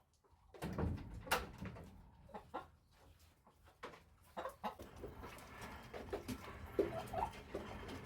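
Chickens clucking, with short calls near the end, among scattered knocks and clicks.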